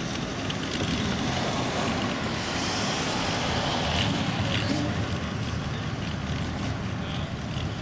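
Car engines and tyres as cars leave in a slow line, one passing close and growing louder about two to five seconds in.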